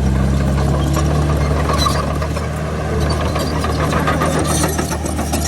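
Diesel engine of heavy earthmoving equipment running steadily, with rattling and clanking over the engine note.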